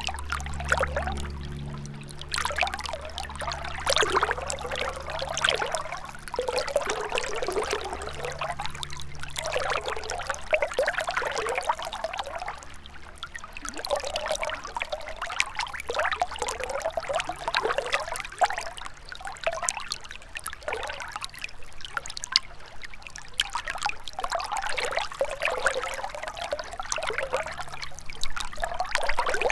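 Gentle river water trickling and flowing steadily, swelling and easing in soft surges every couple of seconds.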